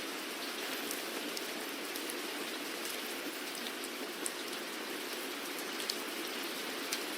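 Steady rain falling, an even hiss with scattered close drops ticking sharply on a surface now and then.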